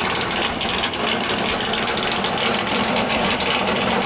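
Cammed 5.3 LS V8 in a twin-turbo Fox-body Mustang idling steadily.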